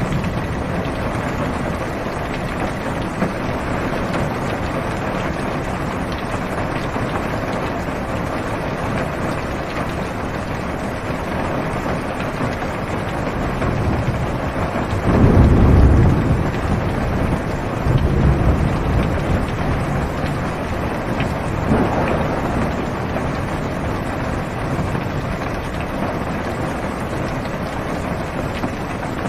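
Heavy rain falling on a car's roof and windows, heard from inside the car, as a steady hiss. About halfway through, a low rumble of thunder swells for a second or two, with a second, weaker rumble a couple of seconds later.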